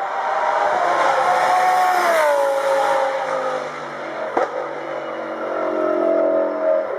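Audi R8 LMS Ultra race car's V10 engine passing at speed: it builds to a peak, then its pitch drops sharply about two seconds in as it goes by. A sharp crack about halfway through, then a second engine note rises and cuts off near the end.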